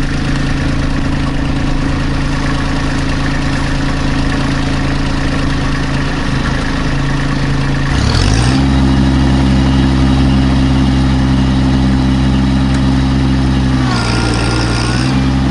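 Kubota B2650 compact tractor's three-cylinder diesel engine running, throttled up about eight seconds in and held at higher revs as the tractor, stuck in deep mud, tries to climb out. Near the end the engine note sags briefly under load while a high whine sounds.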